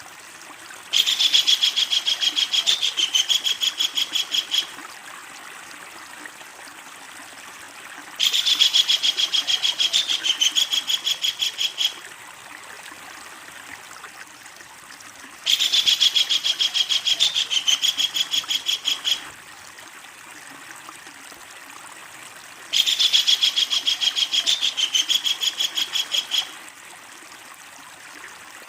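Kingfisher giving its long, loud rattling call: a fast run of sharp, high notes lasting about three and a half seconds. The call comes four times at even intervals of about seven seconds.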